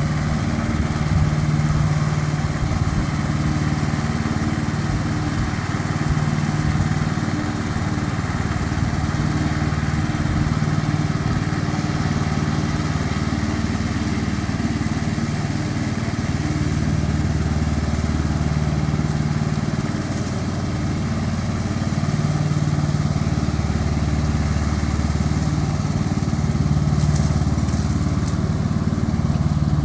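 Tractor engine running steadily, its tone swelling and easing a little as it goes.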